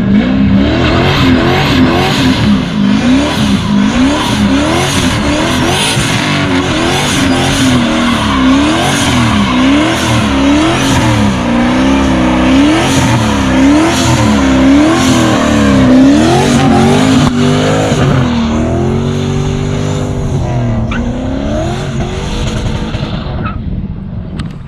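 Turbocharged LS1 V8 in a Camaro SS doing a burnout: the engine revs rise and fall over and over as the rear tyres spin and squeal. Near the end the revs hold steadier, then drop away.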